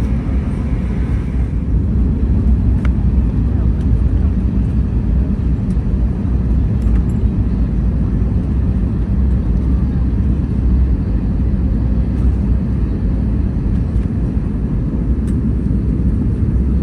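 Steady low rumble inside the cabin of an Airbus A321neo, from its engines and airflow or its wheels, with a few faint clicks.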